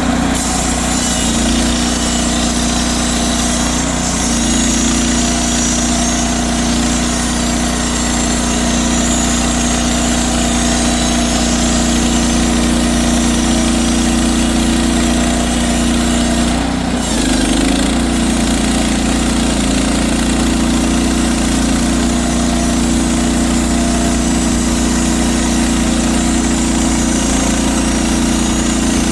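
Portable sawmill's small petrol engine running steadily, with a brief change in its note about 17 seconds in.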